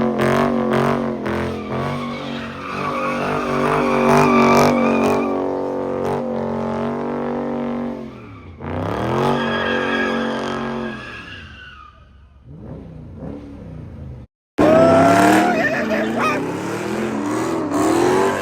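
Car engine held at high revs with tires squealing, as a car spins in a burnout at a car meet. Around eight seconds in, the revs drop and climb again, then fade. After an abrupt cut the loud engine and tire squeal start again.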